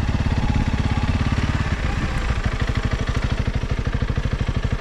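Motorcycle engine running at low speed under the rider, a steady train of firing pulses; about two seconds in the note changes and the pulses become more separate and distinct.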